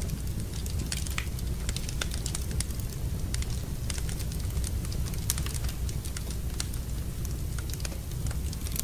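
Wood fire burning in a fireplace, with a steady low rumble under many sharp, irregular crackles and pops.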